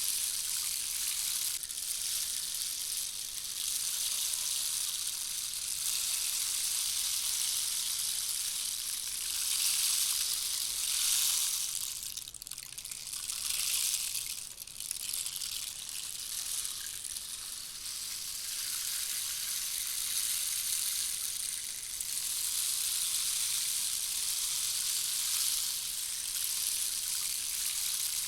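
Handmade rainstick, its fill trickling down through the tube in a continuous rain-like hiss that swells and eases, dipping briefly twice near the middle.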